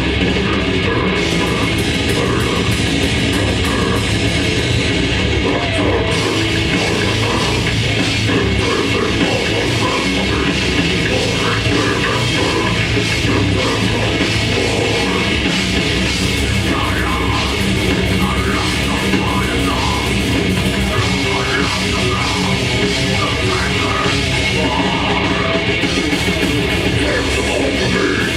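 Grindcore band playing live at full volume: distorted electric guitars, bass and drum kit in a dense, unbroken wall of sound.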